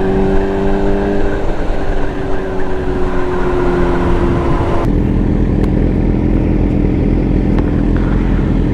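Sportbike engine running under way, its steady note sagging slightly, then dropping suddenly to a lower, rougher note about five seconds in.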